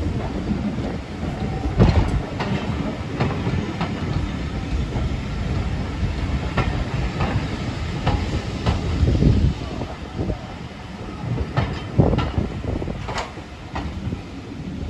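Steam-hauled train moving slowly past, its wheels and couplings giving irregular clanks and clicks over a steady low rumble.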